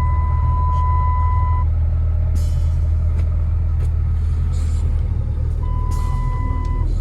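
Vehicle engine idling with a steady low rumble, with a steady high electronic beep tone over it for about the first second and a half and again for about a second near the end.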